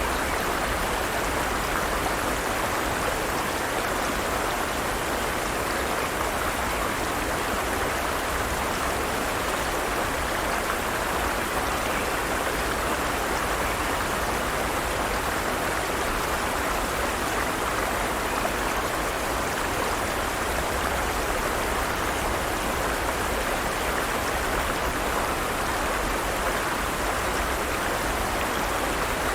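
Forest stream water flowing steadily over rocks, an even, unbroken rush.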